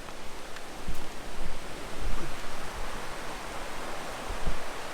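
Steady rushing of a waterfall, with a few low thumps about a second in, two seconds in and near the end.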